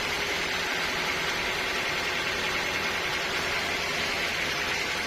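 Sawmill machinery running steadily: an even, unbroken hiss with a faint steady hum underneath.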